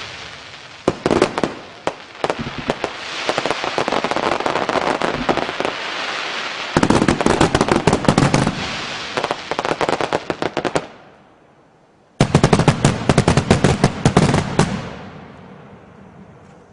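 Fireworks going off in dense, rapid crackling volleys of sharp bangs. Two loud runs of crackle start and stop abruptly, about seven and twelve seconds in, before the sound dies away near the end.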